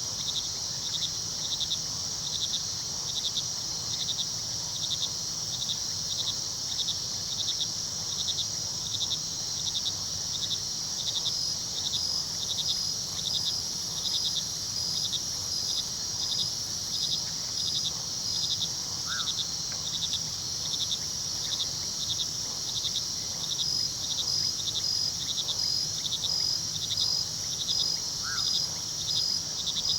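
Night chorus of crickets: a steady high trill with another cricket chirping in a regular pulse about twice a second, and a third joining on and off with quicker pulses. Beneath them runs the low, steady rush of a river, and two faint short calls rise over it, one a little past the middle and one near the end.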